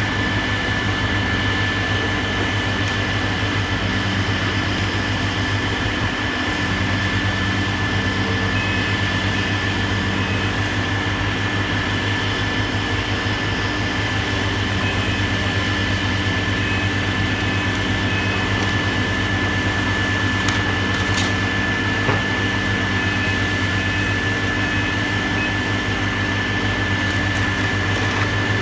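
Heavy demolition machinery's engine running steadily, with a constant high-pitched whine above it.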